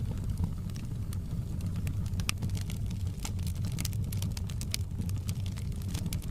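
Wood fire in a fireplace crackling: irregular sharp pops and snaps, several a second, over a steady low rumble of burning flames.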